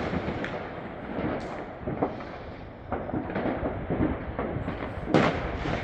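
Fireworks and firecrackers banging irregularly over a steady rumble of more distant bangs, each with an echoing tail, and a louder bang about five seconds in.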